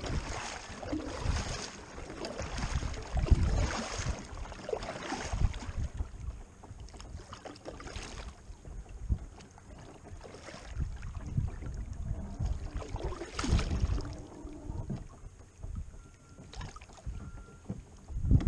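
Kayak on the water with wind gusting across the microphone: a run of surges about a second apart in the first six seconds, quieter after, then more gusts later on.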